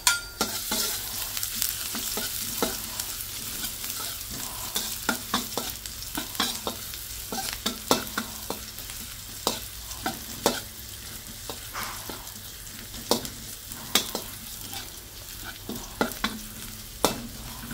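Minced garlic and ginger sizzling in hot oil in a stainless steel wok, being sautéed. A metal spatula stirs and scrapes them, clicking against the pan many times at an irregular pace.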